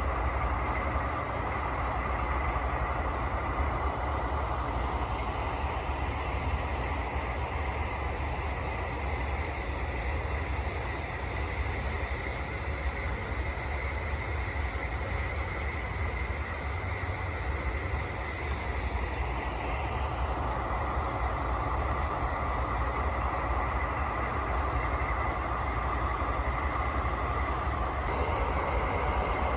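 A DD51 diesel-hydraulic locomotive's twin V12 diesel engines running at full throttle: a steady, heavy rumble with a high whine over it, easing a little in the middle and picking up again about two-thirds of the way through.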